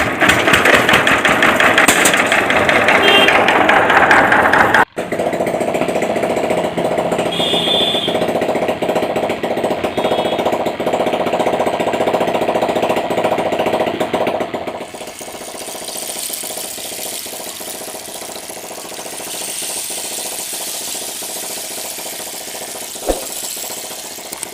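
Small motor of a homemade model tractor running with a rapid buzzing rattle. The sound changes abruptly about five seconds in to a steadier hum and drops quieter about two-thirds of the way through.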